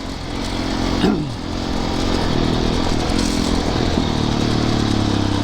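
Dirt bike's four-stroke single-cylinder engine running along a trail, with a brief drop and rise in revs about a second in and another change in pitch near four seconds. A steady rush of wind and ground noise runs underneath it.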